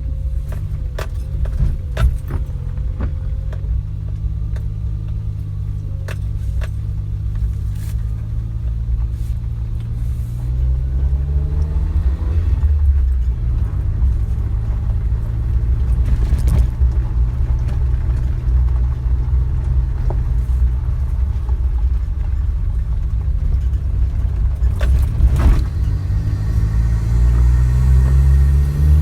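Suzuki Jimny engine running as the vehicle drives, with the engine note rising twice as it picks up revs, about ten seconds in and again near the end. Scattered sharp knocks and rattles sound over it.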